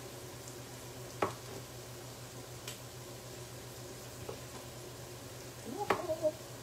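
Onion sizzling faintly as it sautés in a pan over medium heat, with a sharp knock about a second in and a short cluster of clatter near the end.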